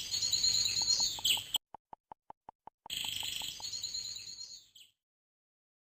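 Birds chirping in two short bouts, with a brief run of quick ticks, about eight a second, between them.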